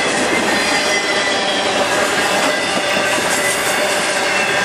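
Norfolk Southern intermodal freight train's trailer-carrying flatcars rolling past close by: a loud, steady rumble and rattle of steel wheels on the rails, with thin high-pitched squeals from the wheels running over it.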